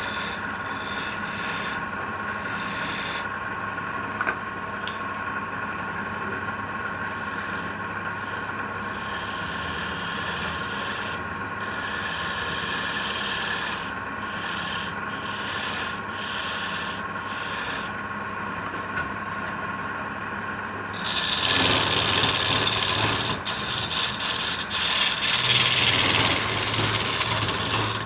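A woodworking machine's motor runs with a steady hum while wood is sanded against it with a rubbing hiss. About three-quarters of the way through, the sanding becomes much louder and coarser.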